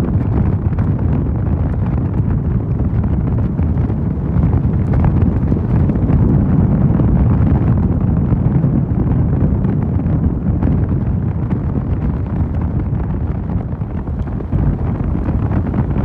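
Wind rushing over the microphone of a Mondial Fury motorcycle on the move, a steady low rumble of wind and riding noise that swells slightly partway through.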